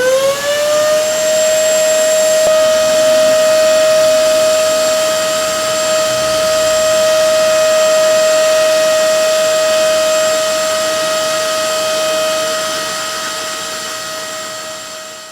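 Electric machine polisher spinning up and then running at a steady speed: a steady motor whine that fades out near the end.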